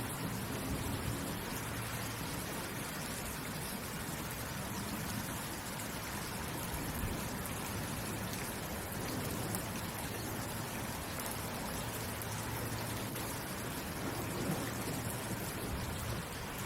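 Steady rainfall: a dense, even hiss of rain with drops pattering on a surface.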